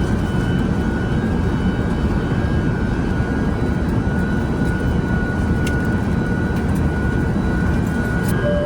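Steady airliner cabin noise inside an Airbus A380: an even low rumble with a thin steady whine above it.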